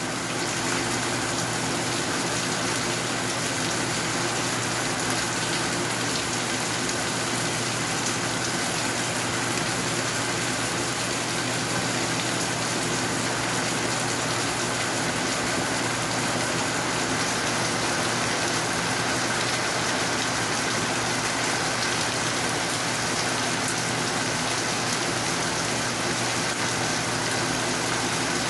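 Steady rain falling, an even hiss without pauses or changes.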